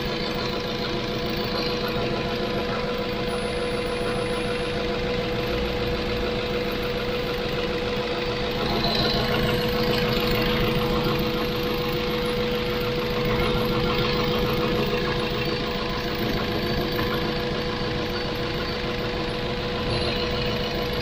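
Ford Focus 1.6-litre 16-valve petrol engine idling steadily, with a constant high tone over the running. The idle holds unchanged as the vacuum hoses and intake gasket are sprayed with soapy water: no vacuum leak shows at those spots.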